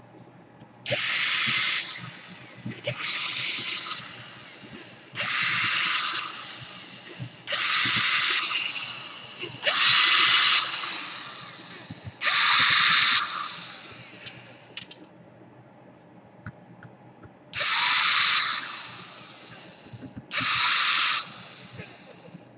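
Small electric screwdriver running in short bursts of about a second each, eight times, backing out laptop case screws.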